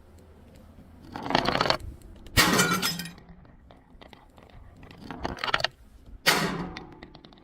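Glass bottles breaking: four crashes with scattered tinkling of shards after them, the two sharpest about two and a half and six seconds in.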